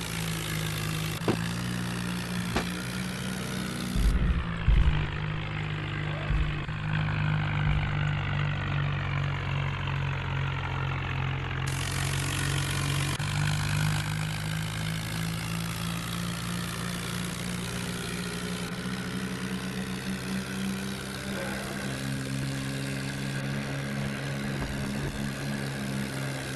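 John Deere tractor's diesel engine running steadily, with a few thumps about four seconds in and a slight rise in its note a little after twenty seconds.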